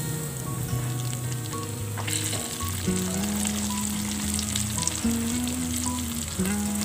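Raw potato sticks sizzling and crackling as they deep-fry in a pan of hot oil. The crackling gets busier from about two seconds in.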